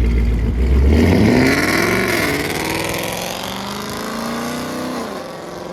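Ford Mustang GT's V8 exhaust, running low and steady, then revving up about a second in, falling back, and rising again before it stops abruptly.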